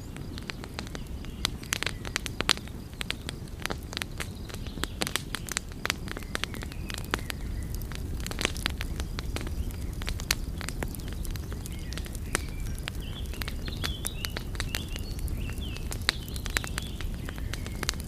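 Wood fire crackling, with frequent sharp pops and snaps over a steady low rumble of flame. A few short, high chirping sounds come through about two-thirds of the way in.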